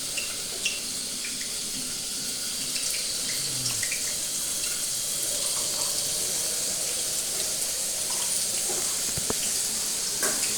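Food frying in hot oil in a pan, a steady sizzling hiss with a few faint clicks.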